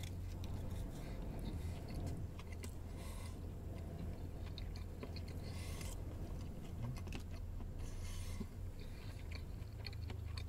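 A man chewing a mouthful of burger with soft wet mouth sounds and small clicks, over a steady low hum.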